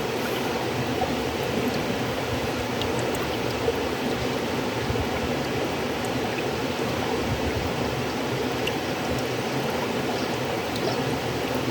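River water flowing steadily: an even rushing with faint small splashes and drips scattered through it.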